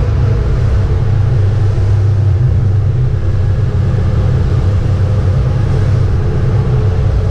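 BMW E36 325's straight-six engine running hard at fairly steady revs under load, heard from inside the cabin over road and wind noise.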